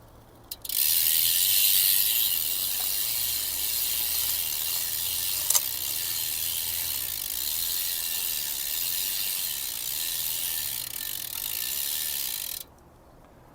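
Aerosol chain cleaner sprayed onto a bicycle chain in one continuous hiss of about twelve seconds, starting and stopping abruptly, with a single click about halfway through.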